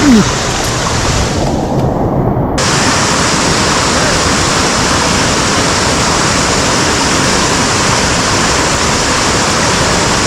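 Mountain stream water rushing over a cascade, a loud steady roar of water. About a second and a half in, the hiss is briefly muffled before returning at the same level.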